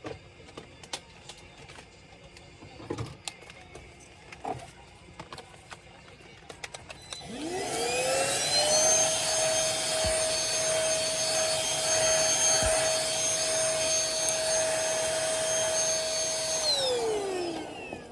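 A few small clicks and taps, then a small electric motor spins up to a steady high whine about seven seconds in, runs for about nine seconds and winds down near the end.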